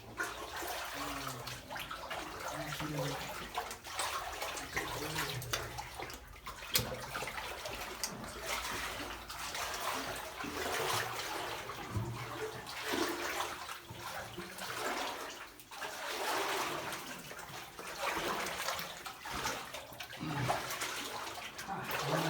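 People wading through knee-deep water in a flooded mine tunnel, the water sloshing and splashing in repeated surges with each stride, echoing off the rock.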